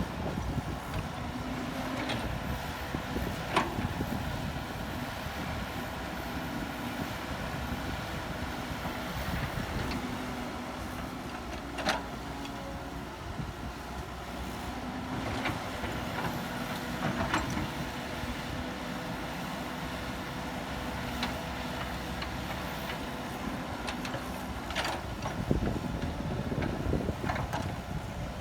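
Diesel engine of heavy earthmoving machinery running steadily, with a few sharp metallic knocks scattered through it.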